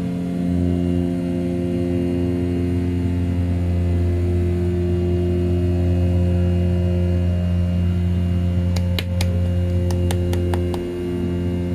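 A desktop CNC mill's 500 W brushless spindle running at 6000 rpm while roughing A7075 aluminium in a load-controlled 2D pass: a steady cutting hum. Near the end there is a short cluster of sharp clicks.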